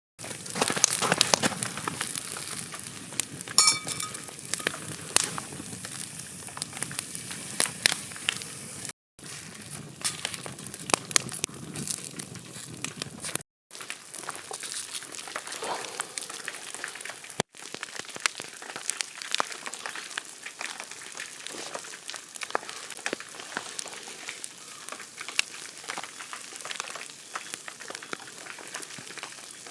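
Wood campfire crackling with a frying sizzle: many sharp pops and ticks over a steady hiss. The sound breaks off abruptly at a few cuts.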